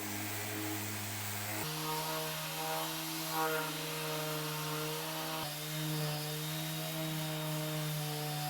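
Electric power tool running steadily on wood with a constant hum, its pitch stepping abruptly to a new level twice.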